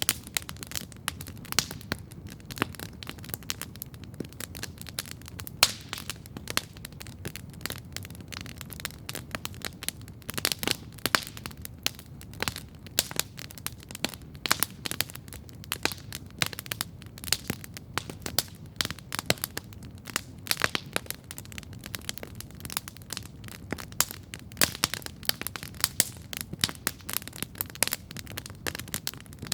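Wood campfire crackling and popping steadily, with dense irregular sharp pops over a low, steady rush of the burning fire.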